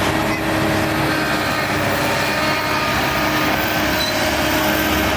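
Heavy diesel earthmoving machine running steadily under work, a dense, constant engine noise with no clear changes.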